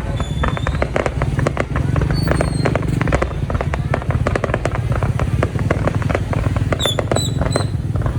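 Fireworks going off in a dense, continuous stream of rapid pops and bangs, with a few short high whistles shortly after the start and again near the end.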